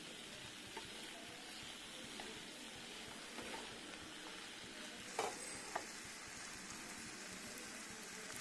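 Small potatoes and brinjal pieces frying in spiced masala in a non-stick kadai: a faint, steady sizzle as a wooden spatula stirs them, with two light knocks of the spatula against the pan a little after five seconds in.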